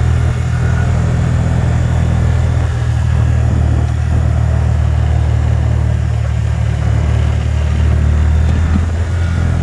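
Car engine and road noise heard from inside the cab while driving, a steady low drone.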